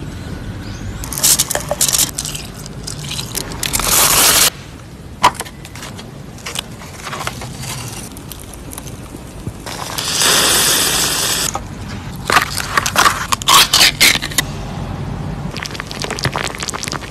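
Scraping and crackling from a small tin-can campfire being set up and lit, broken by sharp clicks and cracks. There is a steady hiss about ten seconds in that lasts about a second and a half, then a burst of sharp cracks.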